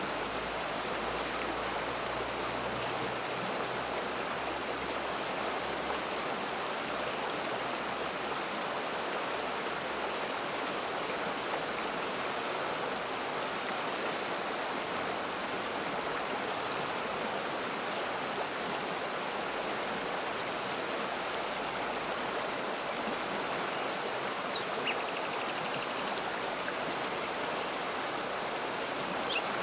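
Waterfall pouring steadily, an even rush of water, with a short bird trill a few seconds before the end and a few quick chirps at the very end.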